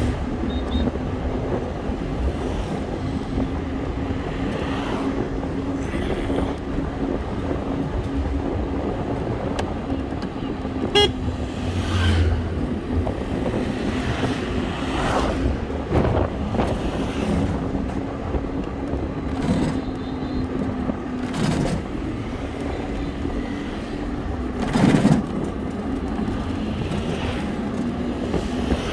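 Road traffic heard while riding: a steady engine hum over a low rumble, vehicles passing by, and a short horn beep about eleven seconds in.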